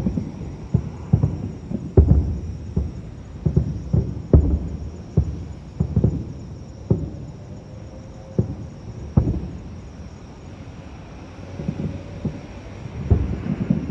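Aerial fireworks bursting: an irregular string of deep booms, often two or more a second. They thin out for a few seconds past the middle, then come thick again near the end.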